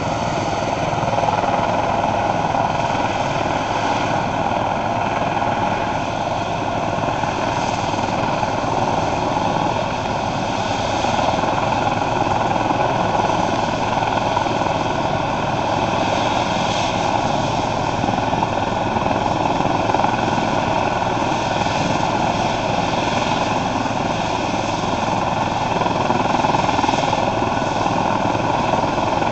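Eurocopter EC135 police helicopter's twin turbines and rotor running steadily during start-up: an even whine of turbine tones over rotor and engine noise.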